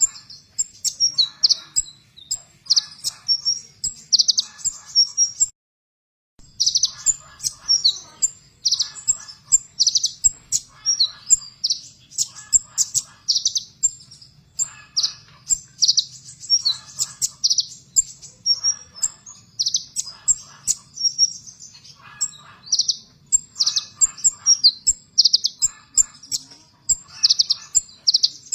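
A konin, the sunbird known in Indonesia as 'kolibri ninja', singing rapid, sharp, high-pitched chirps in quick bursts of several notes, repeated again and again. The sound drops out completely for under a second about six seconds in. A faint low hum runs beneath.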